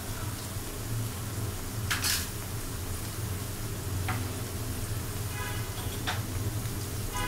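Onions with garlic, ginger and cumin paste sizzling in hot oil in an aluminium karai, over a low steady hum. A few sharp clicks cut through, the loudest about two seconds in.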